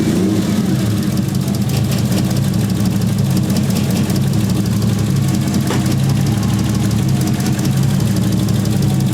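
Toyota 1JZ VVTi inline-six engine idling unevenly with a misfire that is still there after the coil packs, plugs and plug wires have been checked and refitted.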